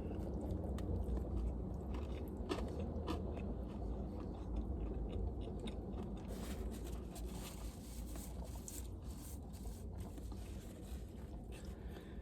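A person chewing a mouthful of fried chicken slider, with irregular crunches from the crisp breading and lettuce, over a steady low hum.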